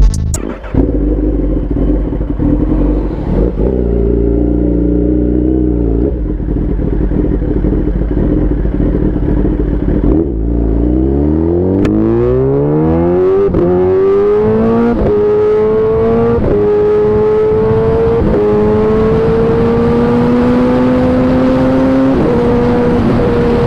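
Sport motorcycle engine running along steadily, then from about ten seconds in accelerating hard, its pitch climbing and dropping back at each of about five upshifts.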